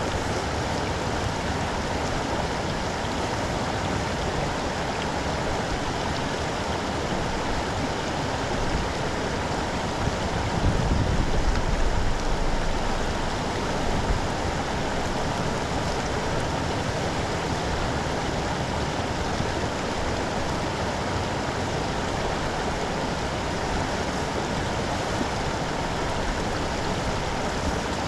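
Floodwater rushing steadily into a cleared street storm drain. A louder low rumble swells for about two seconds midway.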